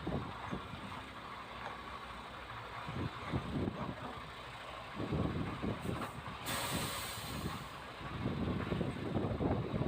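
Truck engine running, with a burst of released air hissing about six and a half seconds in, typical of an air brake or air line.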